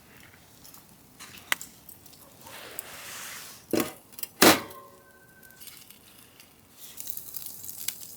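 Tableware clinking: a soft click, then two sharp knocks, the second and loudest leaving a short ringing tone like struck glass or metal. A brief soft hiss comes just before the knocks.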